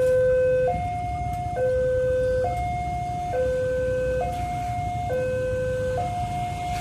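Two-tone siren or alarm alternating steadily between a low and a high note, each note held a little under a second, over a low rumble.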